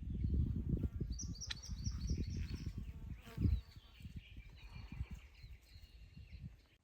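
Birds chirping in a series of short high notes over a low, uneven rumble that fades away toward the end.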